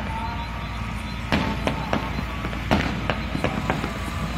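Fireworks going off: a quick run of sharp bangs, some in close succession, starting about a second in.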